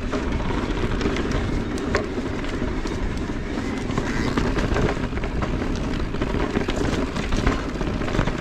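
Salsa Notch carbon e-mountain bike being ridden on a rough trail: steady wind buffeting and tyre noise, with frequent clicks and clatter from the bike over rough ground.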